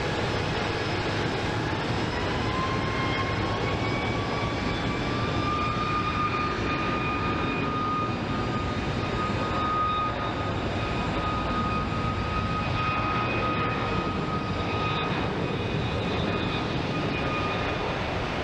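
Jet airliner engines running, a steady rush with a whine that rises in pitch over the first few seconds and then holds steady.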